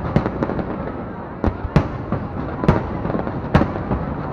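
Fireworks display: sharp shell bursts cracking at irregular intervals, several loud ones about a second apart, over a continuous rumble of further distant explosions.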